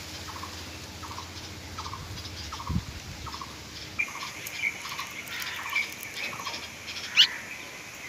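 Birds calling: a short note repeated about twice a second, joined about halfway through by a higher, steadier call, with one loud sharp call near the end.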